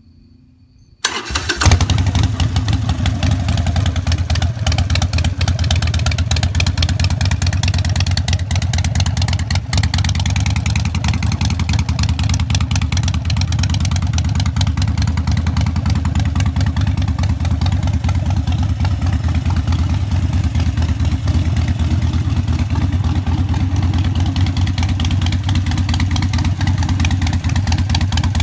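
Harley-Davidson Sportster 1200 V-twin with straight-through Vance & Hines Straightshots exhaust (Thunder Torque inserts half open) started about a second in, catching at once and then idling steadily and loudly with an even run of exhaust pulses.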